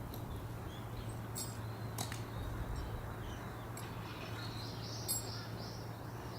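Faint, short, high bird chirps repeating over a low steady hum, with a few sharp isolated clicks.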